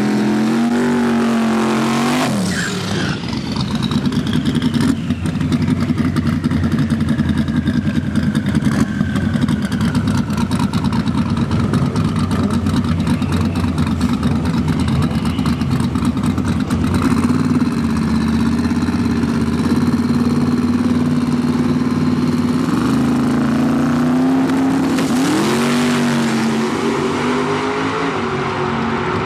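Drag-racing car engines at the starting line, idling loud and rough with a rapid crackle for much of the time. About 23 s in, the revs swing up and down, then rise as the cars launch near the end.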